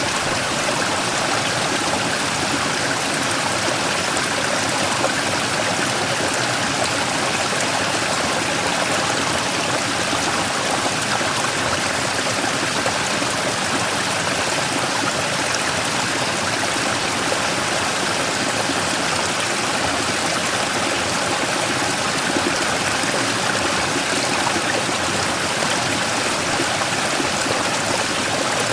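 Mountain stream flowing and splashing over a large rock in a small waterfall, a steady rushing with no change.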